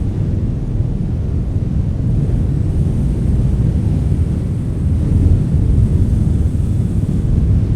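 Strong wind blowing as a steady low rumble, gusting a little harder in the second half.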